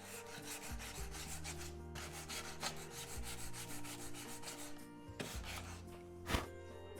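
Repeated strokes of hand rubbing on wood, scratchy and fairly quick, over background music with sustained bass notes; a single sharp knock comes about six seconds in.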